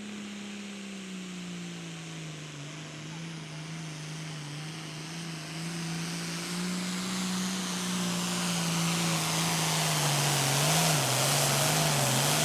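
Turbocharged, 540-cubic-inch diesel of a 10,000 lb Super Pro Farm pulling tractor running flat out under load during a pull. It grows steadily louder, with a rising rush of turbo and exhaust noise, and the engine pitch dips and wavers in the last couple of seconds.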